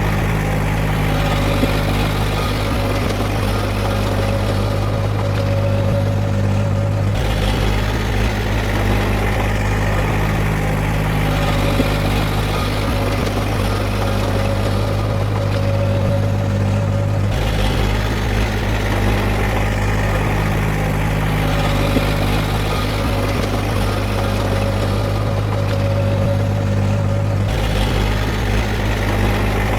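Heavy diesel earthmoving machinery engine running steadily at a constant speed, with no revving. The sound shifts abruptly about every ten seconds, as if the same stretch repeats.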